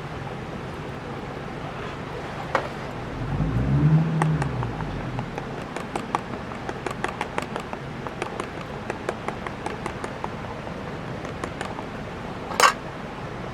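Campfire wood burning under the grill pan, crackling with irregular sharp pops and one loud pop near the end. A low hum swells and fades a few seconds in.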